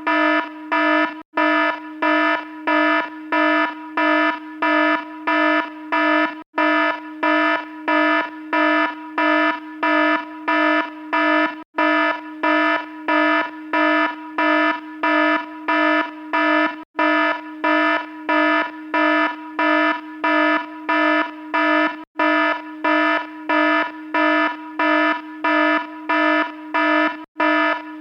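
Alarm beeping continuously in rapid, even pulses, about two a second, each a buzzy steady tone. There is a brief gap about every five seconds.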